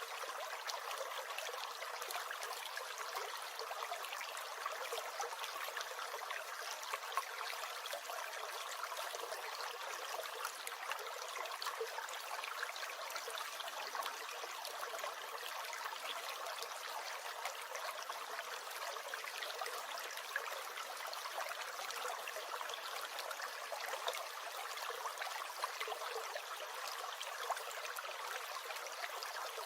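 A small stream gurgling: a steady, even rush of water with quick little splashes all through, and no deep rumble.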